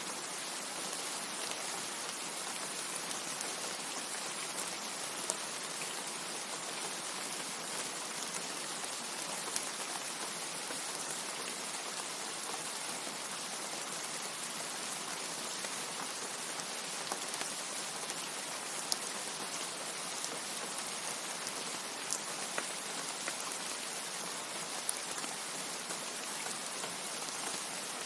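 Steady rain, an even hiss of falling drops, with an occasional sharper tick of a single drop hitting close by.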